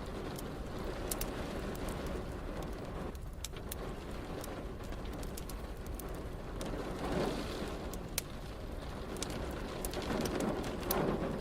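Steady rain with a wood fire crackling over it in sharp scattered pops. The rain swells louder twice, about seven seconds in and again near the end.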